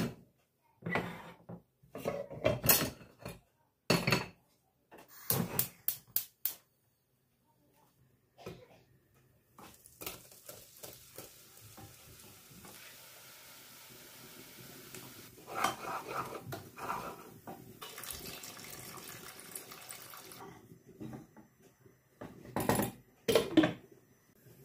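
Dishes and cutlery clattering at a kitchen sink, a string of sharp clinks and knocks. Then a tap runs for about ten seconds with more clinks under the water, and a few last clatters come near the end.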